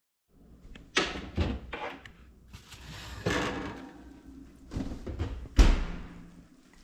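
Kitchen handling noises: a run of knocks, clatters and bangs like doors or drawers being worked, the loudest a heavy thud a little over halfway through.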